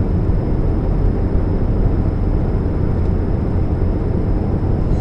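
Steady low rumble and drone of a 2013 Chevrolet Spark on the move, the humming that the owner puts down to an exhaust leak at the catalytic converter. A faint high whine runs along with it.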